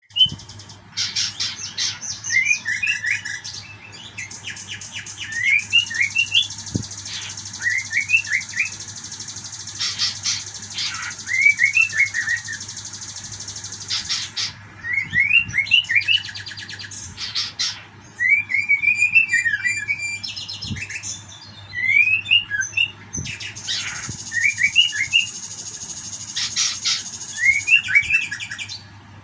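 Caged songbird singing: repeated groups of three or four short, quick, rising chirps, mixed with fast high trills, with short breaks between phrases. A faint steady low hum runs underneath.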